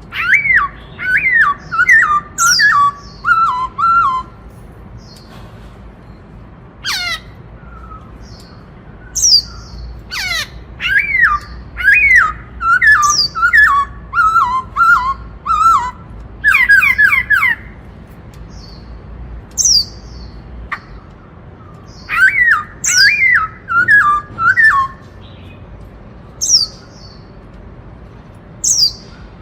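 Black-throated laughingthrush (khướu bạc má) singing. It gives several loud phrases of clear notes that step down in pitch, with single short high notes between the phrases.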